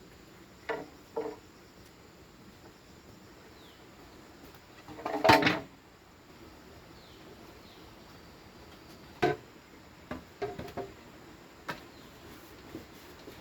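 Bamboo pieces being handled and knocked together in scattered hollow knocks and clatters: two quick knocks near the start, a louder, longer clatter about five seconds in, and a run of knocks near the end.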